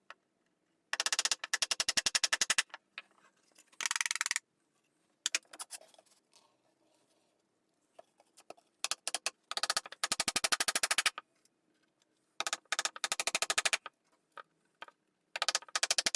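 About six bursts of rapid, evenly spaced clicking, each a second or so long, with short silent pauses between them.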